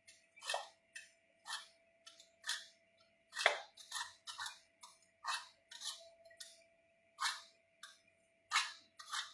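Short scraping strokes repeated about one to two times a second, irregularly, over a faint steady hum.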